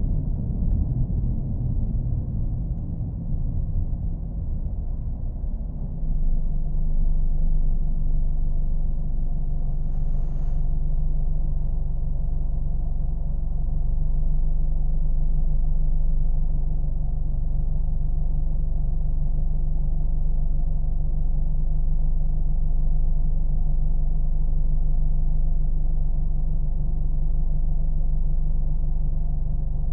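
Car engine running with a steady low hum, growing a little louder about six seconds in.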